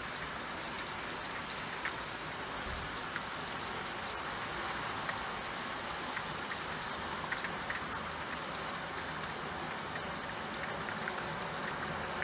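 Steady rain falling, with scattered faint drip ticks.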